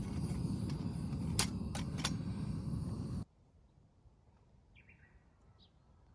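A steady low rumbling noise with a few sharp clicks, which cuts off abruptly about three seconds in. It gives way to quiet outdoor air with a few faint bird chirps.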